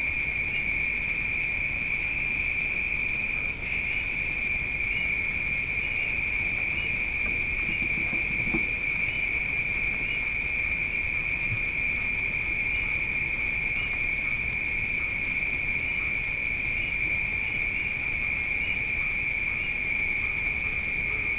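Crickets trilling in a steady, unbroken chorus, with faint short chirps repeating over it.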